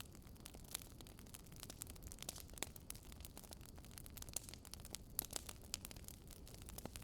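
Wood bonfire crackling: irregular sharp pops and snaps of burning wood over a low, steady rumble of the flames.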